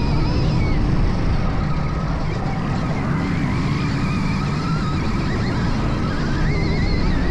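Stark VARG electric dirt bike's motor whining, its pitch rising and falling with the throttle, over a loud, steady rushing noise from riding.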